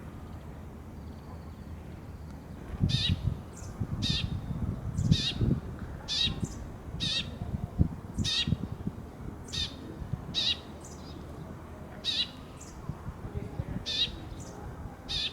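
Eurasian tree sparrow chirping: short, sharp chirps repeated about once a second, starting about three seconds in.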